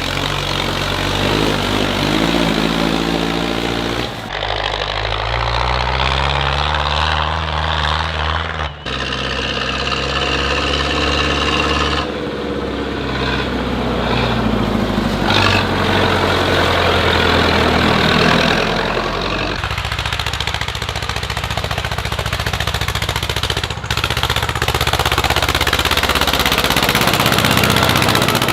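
Tractor engines running and revving, their pitch rising and falling, in a string of short clips that change abruptly every few seconds.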